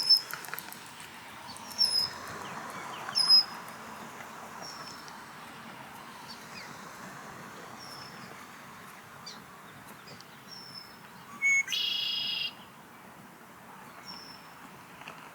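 Ospreys calling: short, sharp chirps that fall in pitch, repeated every second or few seconds, the loudest near the start, with a louder, harsher call lasting about a second about twelve seconds in.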